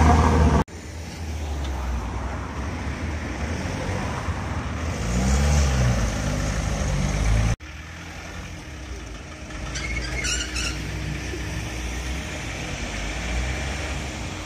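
Show cars driving slowly past: a car engine revs up and back down about five seconds in. The sound then cuts off suddenly, and quieter engines follow as a Land Rover Defender and a Volkswagen Golf pull out, with a few short high chirps around ten seconds in.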